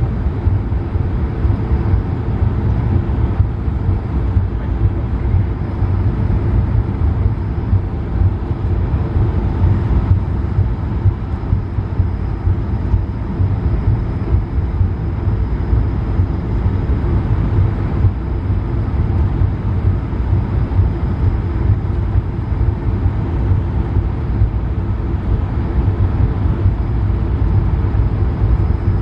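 Steady low rumble of an Airbus A220-300's Pratt & Whitney PW1500G geared turbofans and airflow, heard inside the cabin, with a faint high steady whine above it.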